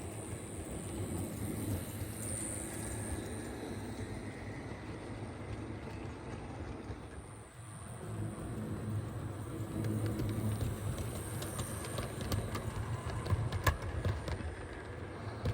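HO scale brass CNJ Camelback 4-6-0 model locomotive running along the track: a steady motor and gearbox hum with light clicks of the wheels on the rails, briefly fading about halfway through.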